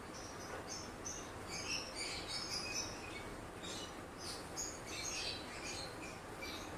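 Birds chirping in the background: a scattered run of short, high chirps over a steady faint hiss.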